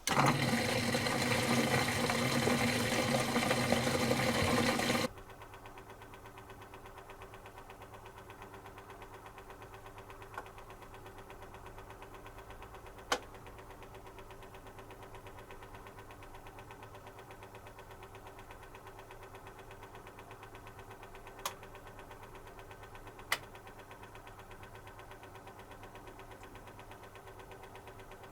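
1990s Zanussi FC1000 compact washing machine starting a programme: a loud rushing for about five seconds that cuts off suddenly, then a steady low hum with four faint clicks.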